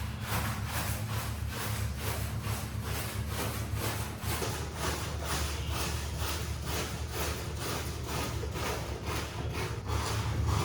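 Rhythmic scraping strokes of a hand tool worked over a mud-soaked shaggy rug, about three strokes a second. A steady low hum runs underneath.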